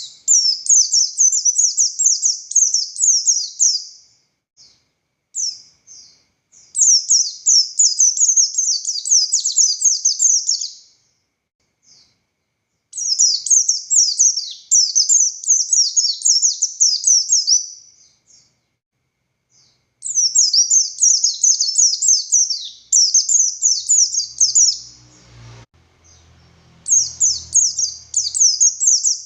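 White-eye (pleci buxtoni) singing: fast, high-pitched chattering song in bouts of about four to five seconds, five times, with short pauses between.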